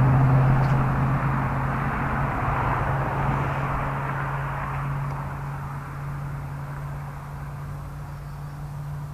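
A motor's steady low hum with a rushing noise over it, loud at first and slowly fading away.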